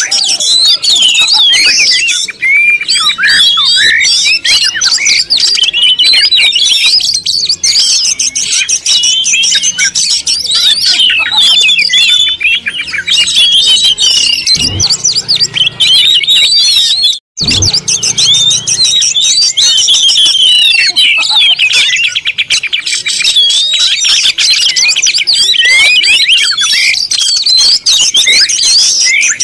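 Many small birds chirping at once, a dense, unbroken chorus of short high calls overlapping one another. The sound cuts out for a moment about two-thirds of the way through.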